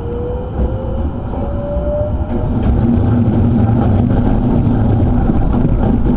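Electric train running, heard from inside the carriage. The traction motor whine rises in pitch as the train accelerates over the first two seconds. A steadier low hum and rail rumble follow and grow louder.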